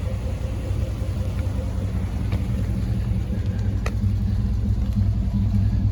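Vehicle engine idling steadily, a low even rumble with a faint steady hum above it, and one sharp click about four seconds in.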